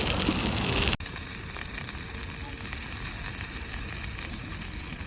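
Chicken drumsticks sizzling over a campfire, a steady sizzle that drops abruptly to a lower level about a second in, then carries on evenly.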